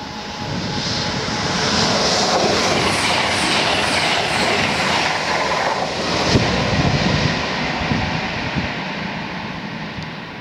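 Virgin Class 221 Voyager diesel-electric trains passing at speed: a loud rushing noise of underfloor diesel engines, wheels and air that builds over the first two seconds and stays loud. There is a sudden jump in the sound about six seconds in, after which it slowly fades.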